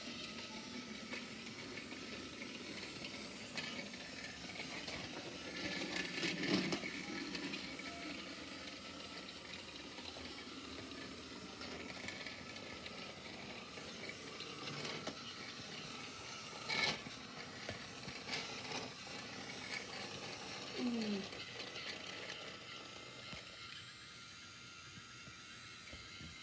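Small motor and gears of a battery-powered toy train running steadily, with a few clicks and knocks.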